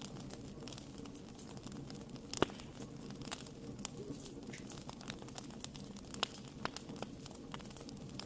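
Wood fire burning in a fireplace: a steady low flutter of flames with irregular sharp pops and crackles, the loudest pop about two and a half seconds in.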